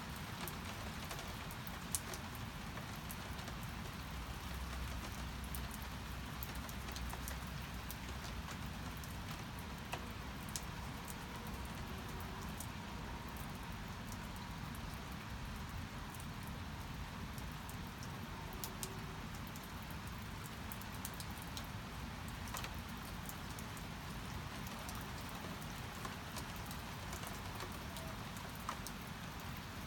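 Steady rain falling, with a few louder single drops striking a surface now and then.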